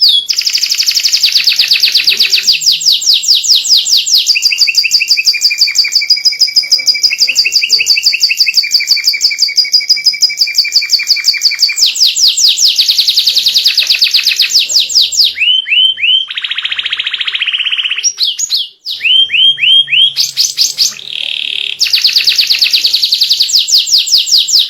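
White domestic canary singing loud, continuous song: fast rolling trills of rapidly repeated high notes, switching to a new phrase every few seconds, including runs of quick down-sweeping notes, with a short break about 19 seconds in.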